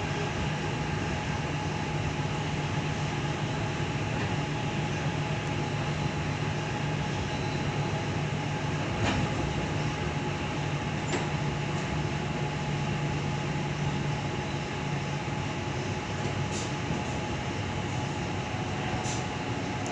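Tangara electric train heard from inside the carriage, running along the line with a steady rumble and a low hum. A few sharp clicks come through about halfway and near the end.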